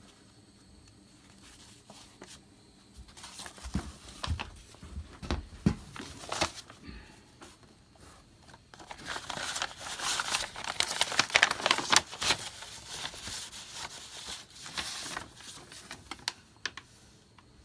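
Old paper documents being unfolded and handled: a few knocks and rustles early on, then a long stretch of dry crinkling and crackling in the middle.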